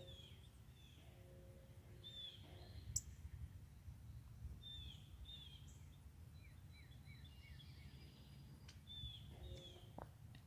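Small songbirds chirping: scattered short downward-slurred chirps, with a quick run of about five lower slurred notes in the middle, over a faint low rumble. A single sharp click about three seconds in.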